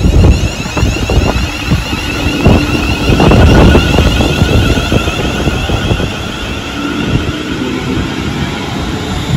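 A train passing close by on the main line: a loud rushing rumble with knocks from the wheels, loudest about three and a half seconds in.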